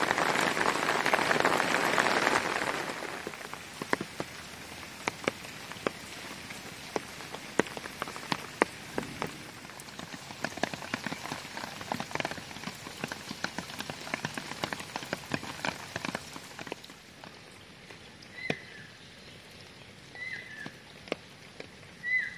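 Heavy rain hissing steadily for the first few seconds, then quieter rain falling on pooled muddy water, with many single drops plopping against a flow of water. Near the end a short, high call repeats about every two seconds.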